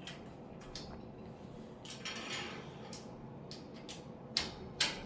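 Scattered light clicks and taps, with a brief rustle about two seconds in and two sharper clicks near the end.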